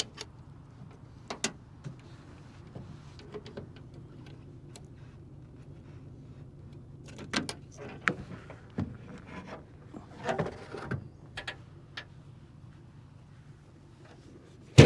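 2002 Toyota Tundra pickup's engine running steadily, with scattered clicks and knocks and a loud thump right at the end like a door shutting.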